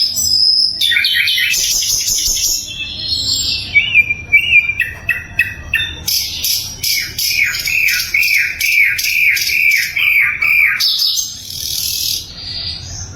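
Sikatan londo flycatcher singing loud, varied song: quick chirps and buzzy notes, then a fast run of about nine repeated, evenly spaced notes in the middle, ending in a buzzy phrase.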